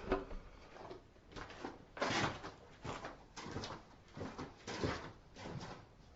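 A series of short, irregular scrapes and rustles, roughly one or two a second, as things are handled and moved about.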